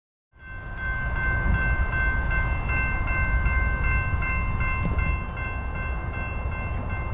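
Locomotive air horn held as a steady multi-note chord over the low rumble of a train, cutting in abruptly just after the start.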